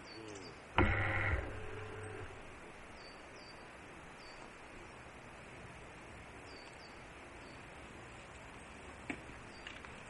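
Forest ambience: faint, high, short descending bird chirps repeat every second or so over a steady hiss. About a second in, a loud sudden noise with some tone in it lasts about half a second and fades, and two small clicks come near the end.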